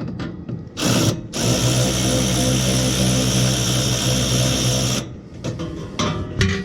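Cordless drill-driver running: a short burst about a second in, then a steady spin of about three and a half seconds that cuts off suddenly, and a couple of short bursts near the end.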